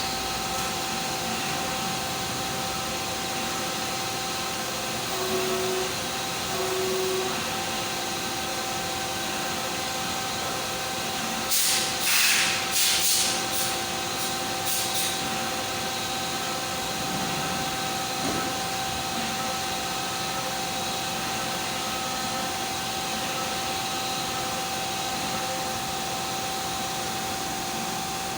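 Five-axis CNC machine running: a steady hiss with a steady whine. About halfway through comes a cluster of short, louder hissing bursts.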